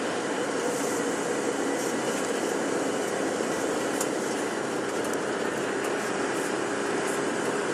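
Steady engine and road noise heard from inside a moving tour bus, with a constant hum and a few faint ticks and rattles.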